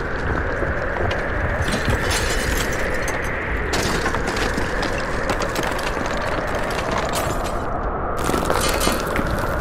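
Rockslide sound: a steady rumble of falling earth with bursts of cracking and breaking stone.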